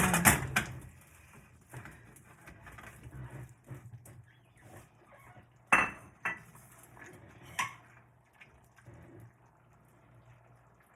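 A metal cooking pot and utensils clattering and clinking. There is a loud clatter at the start, then quieter scraping, and three sharp clinks a little past the middle.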